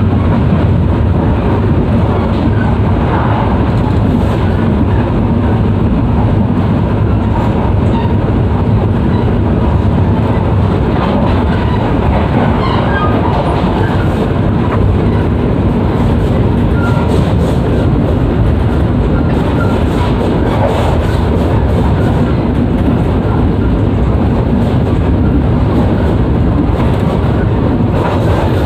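Passenger train running, heard from inside an executive coach: a steady, low wheel-and-rail noise with a few faint clicks.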